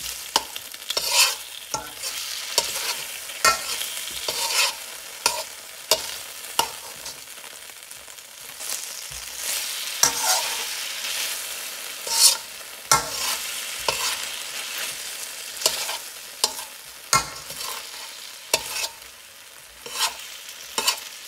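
Chicken gizzards and sliced peppers sizzling in a frying pan while a spatula stirs and turns them, with sharp, irregular scrapes and taps of the spatula against the pan over a steady hiss.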